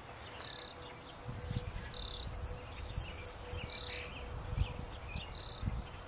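Birds calling at a nest: a short, high call repeated about every one and a half to two seconds, with fainter short chirps in between. A low rumble comes and goes underneath.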